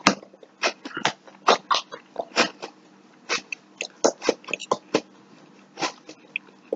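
Close-up chewing of fried zucchini: wet smacks and clicks of the mouth and lips, a few a second and unevenly spaced.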